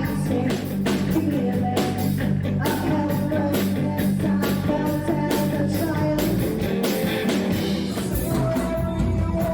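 Rock band playing live, with drums keeping a steady beat under electric guitar and a singer.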